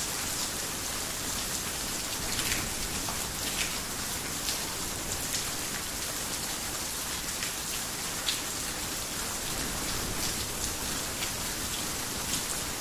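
Heavy rain falling on a roof: a steady hiss with scattered sharper drop impacts.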